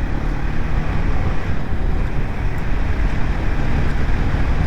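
BMW G 310 GS motorcycle at steady cruising speed: a dense, steady rush of wind and road noise with the single-cylinder engine's low, even drone underneath.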